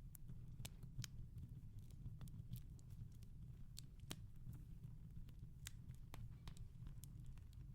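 Fireplace wood fire crackling softly: irregular small pops and snaps, a few each second, over a low steady rumble.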